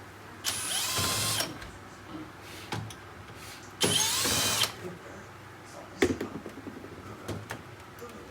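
Cordless electric screwdriver spinning twice, each run lasting about a second, near the start and about four seconds in, backing screws out of an air conditioner indoor unit's casing. Light clicks and knocks follow, the plastic cover being handled.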